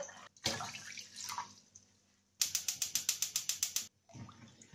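Water pouring into a stainless saucepan of flaxseeds, then a quick, even run of about a dozen sharp clicks lasting about a second and a half.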